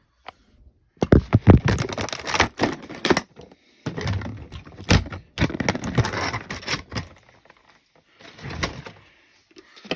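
A model train car's box being opened by hand: a dense run of cardboard and packaging rustles, scrapes and knocks, pausing briefly and picking up again near the end.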